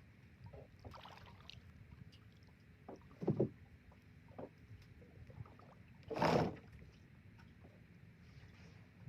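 Small boat at sea: a steady low rumble of water and hull with scattered small knocks, and two short louder noises about three and six seconds in, the second the loudest and sharpest.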